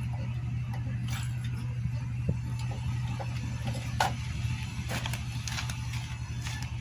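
Small motorcycle engine idling steadily with an even, fast ticking beat, run to show its condition before the teardown. A couple of light clicks sound about two and four seconds in.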